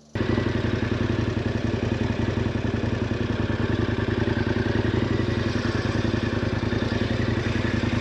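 KTM 1090 Adventure R's 1050 cc LC8 V-twin engine running steadily. It cuts in suddenly just after the start and holds an even pitch.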